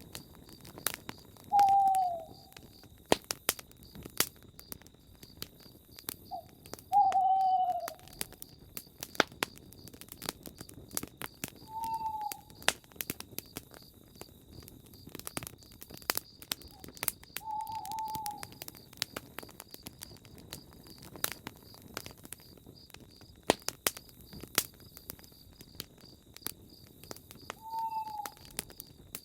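Campfire crackling with frequent sharp pops, while a bird gives short, falling hoots five times at irregular intervals.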